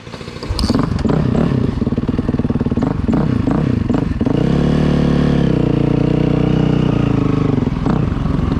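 Dirt bike engine running under load, its pitch rising and falling with the throttle at first, then held nearly steady for a few seconds before easing off near the end.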